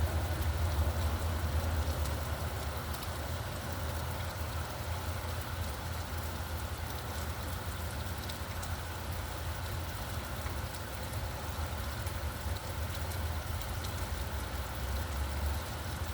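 Steady rain falling, with a low rumble of traffic underneath. A vehicle fades away over the first two seconds.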